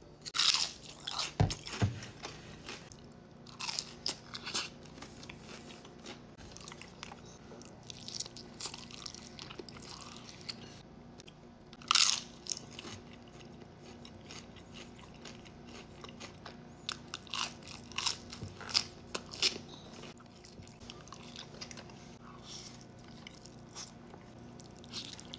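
Close-up biting and chewing of crunchy food: irregular sharp crunches throughout, the loudest about half a second in and again around the middle.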